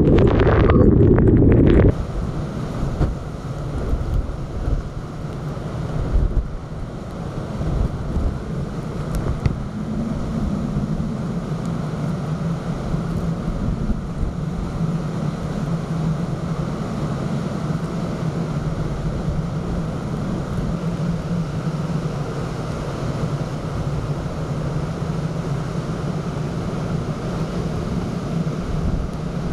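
Typhoon-force wind buffeting the microphone, then, after an abrupt cut about two seconds in, a steadier roar of wind and surf with a steady low hum underneath.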